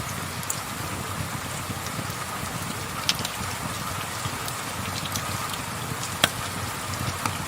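Steady rain falling, with a few sharp pops from a crackling wood fire: one about three seconds in, a louder one just past six seconds, and a smaller one near the end.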